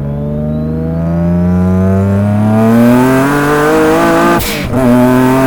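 2003 Nissan 350Z's turbocharged VQ35DE V6 accelerating hard in gear, its note rising steadily with a thin turbo whine climbing above it. About four seconds in comes an upshift: a short burst of noise, the revs drop, and the engine pulls and climbs again.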